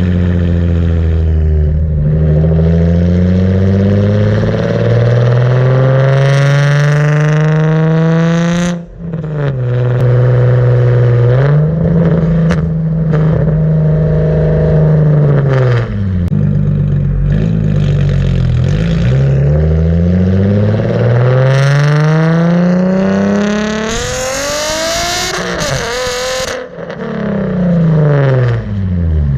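Car engine through a Tomei cat-back exhaust, heard close to the tailpipe: loud, repeatedly revving up with a rising pitch and dropping back, with sudden short breaks at the gear changes, about nine seconds in and again near the end.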